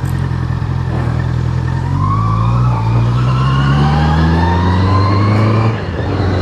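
Honda CBR650R's inline-four engine running, rising steadily in pitch from about two seconds in as the bike accelerates, then dropping suddenly near the end as it shifts up a gear.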